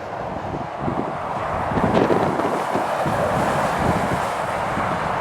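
Road traffic passing on a wet road, a steady tyre hiss, with gusty wind buffeting the microphone.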